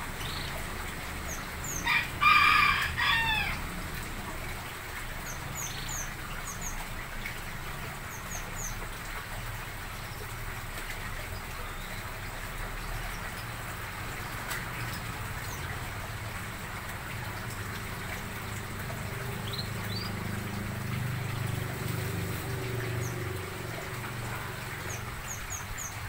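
A loud bird call about two seconds in, lasting just over a second and ending in a falling note. Faint high chirps are scattered throughout over a steady low hum.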